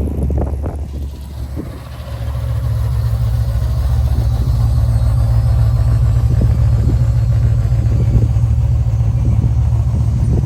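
Car engine running with a deep, steady rumble that grows louder about two seconds in and then holds.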